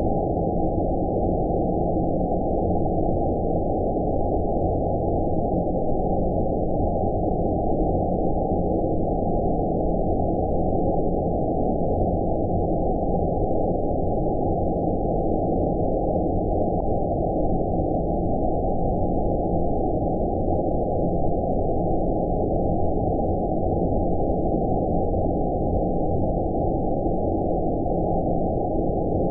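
Steady, deep rumbling noise of an 'outer space' white noise sleep track: a muffled hiss with all the high tones removed, unchanging in level.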